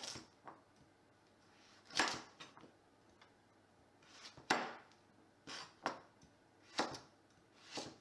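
Kitchen utensil sounds on a wooden surface: about six separate short scraping strokes, roughly a second apart.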